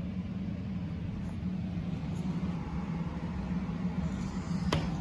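Royal commercial upright vacuum cleaner running steadily over carpet, a constant motor hum with airflow noise. A single sharp click near the end.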